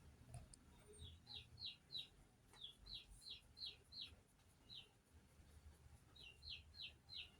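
Faint bird chirping: short, quick, falling notes in runs of three to five, about three a second, with a faint low hum underneath.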